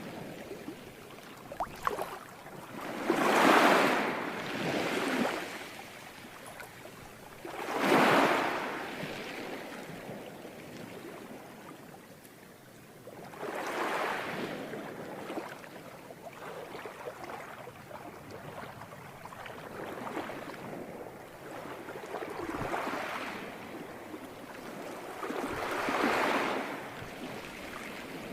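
Ocean waves breaking and washing on a shore, a hushing surge that swells and fades about every four to six seconds, with the biggest breakers early on.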